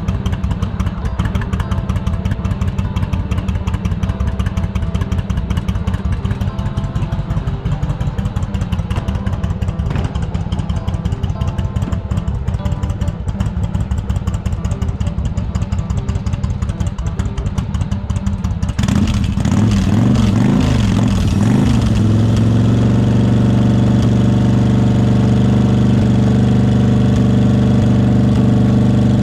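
Yamaha XV1100 Virago's V-twin engine running at idle through its exhaust, with a throbbing low pulse. About two-thirds in, the sound turns abruptly louder, the pitch swings up and down briefly, and it then settles into a steadier, smoother run.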